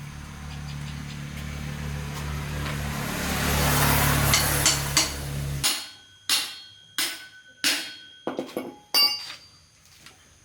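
A machine hums steadily while a hiss builds up, then it cuts off suddenly a little past halfway. A hammer then strikes metal about six times, each strike ringing briefly.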